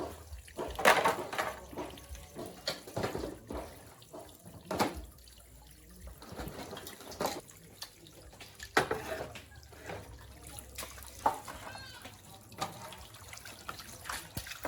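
Water splashing and running in short irregular spurts, with scattered knocks and clinks.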